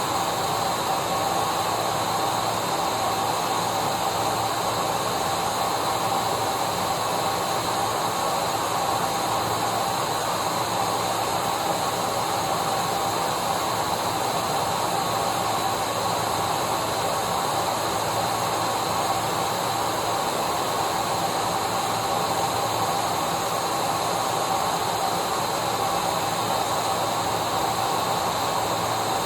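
Vacuum cleaner running steadily: a constant whooshing hiss with a steady motor whine.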